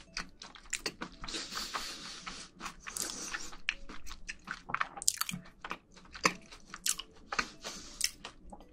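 Close-miked chewing of a mouthful of food: many sharp wet clicks and crunches, with a denser stretch of crackly chewing from about one to three and a half seconds in.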